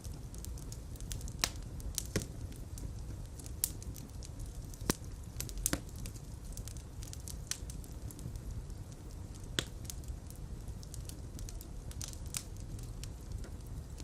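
Fireplace fire crackling: irregular sharp pops and snaps, a few louder than the rest, over a steady low rumble of flames.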